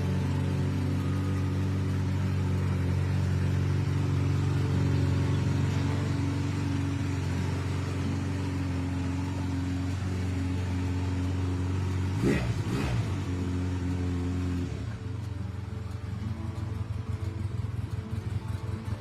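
Honda Rebel 250's air-cooled parallel-twin engine running steadily at a raised idle. About twelve seconds in, the pitch swings briefly, and then the engine settles to a lower, uneven idle.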